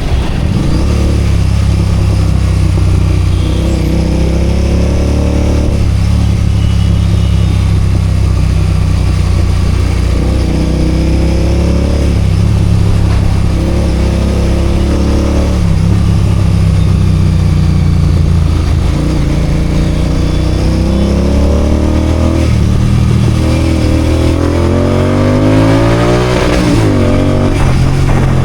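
Royal Enfield Continental GT 650's 648 cc parallel-twin engine and exhaust on the move, the engine note climbing again and again as it pulls through the revs between gear changes, with a quick sharp rev near the end.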